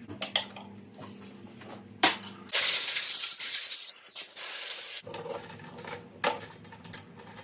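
Aerosol can of brake cleaner spraying in one burst of about two and a half seconds, with a few light knocks before and after.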